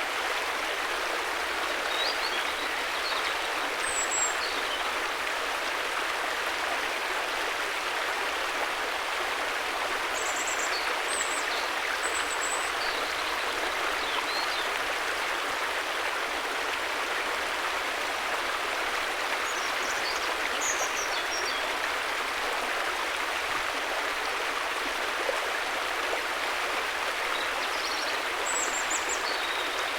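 River water rushing steadily over rocks, an even, unbroken flow. Short high chirps sound faintly over it a few times.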